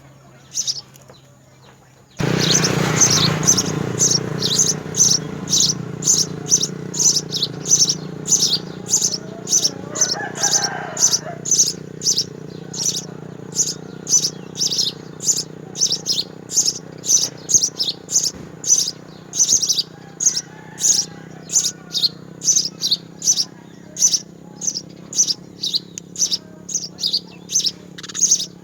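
House sparrow chirping over and over at an even pace, about two short high chirps a second, over a steady low hum that starts about two seconds in.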